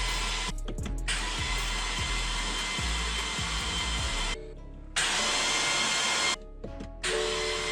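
Starter motor cranking the BMW N63 twin-turbo V8 with its spark plugs removed, so it spins without firing, to build oil pressure before the first start. A steady whirring, cut off briefly three times.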